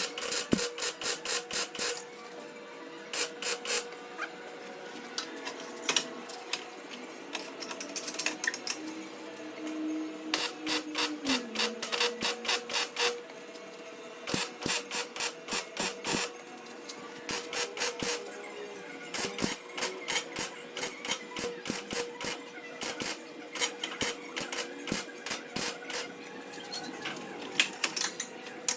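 Rapid, evenly spaced metallic strikes in repeated short bursts, about seven a second, with pauses between bursts, from metal being worked on a race car's frame. A steady hum runs underneath.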